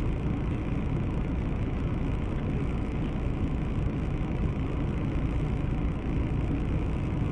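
Steady rumble of a car driving, engine and road noise heard from inside the vehicle, with no impacts.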